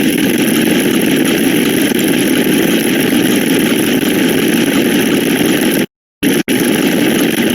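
A dense, loud wall of many overlapping sound effects blended into a steady engine-like rumbling noise. It cuts out abruptly to silence twice, about six seconds in.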